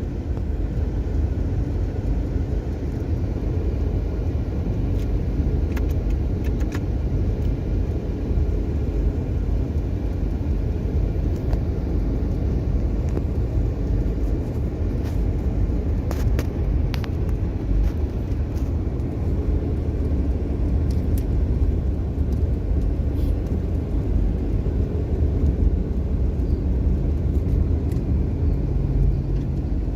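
Steady low rumble of a car's engine and tyres heard from inside the moving car, with a few faint light clicks.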